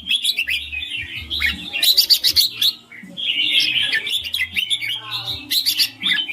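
Red-whiskered bulbul singing: a run of quick, chirpy warbled phrases, with a short pause about three seconds in.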